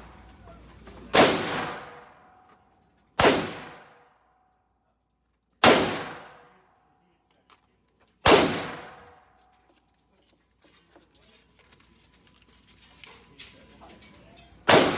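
Single gunshots fired one at a time, each ringing out with a fading echo. Four come about two to three seconds apart, then after a pause one more comes near the end.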